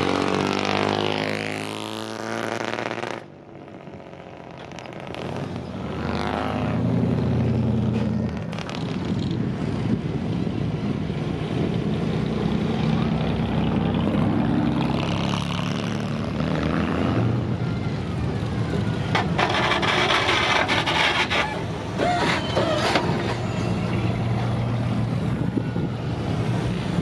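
Cars driving past with engines running, their pitch sliding as they pass. About twenty seconds in, a loud hiss lasts about two seconds.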